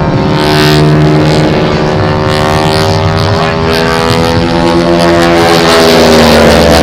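Radial engines of two North American T-6 Texan trainers (Pratt & Whitney R-1340 Wasp) droning loudly as the pair flies a loop. The pitch sinks slowly and then rises again near the end.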